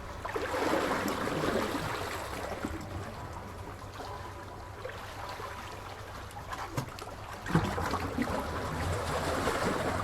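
Sea waves washing onto the shore. One swell rises and falls just after the start, and a second builds from about three quarters of the way in, with a few sharp splashes.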